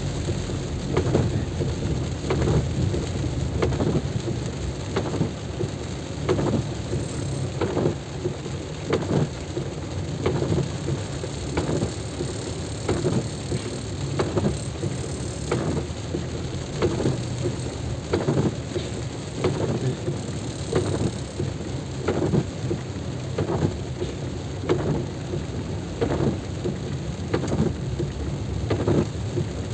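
Heavy rain with a low rumble beneath it, pulsing about once a second.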